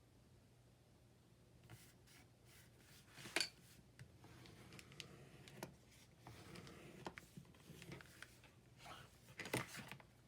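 Paper and card being handled on a desk: soft rustling and rubbing with scattered light clicks, two of them sharper, about three and a half seconds in and near the end.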